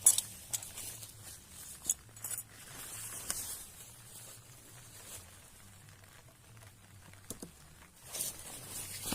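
Irregular rustling and scraping with scattered sharp clicks, the sharpest just after the start and a busier stretch near the end. These are the handling noises of someone moving about and working with gear, not steady rain.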